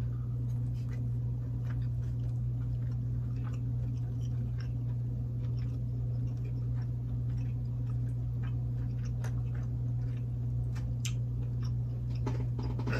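Two people chewing mouthfuls of food, heard as faint scattered small clicks and smacks from their mouths. A steady low hum runs underneath and is the loudest thing.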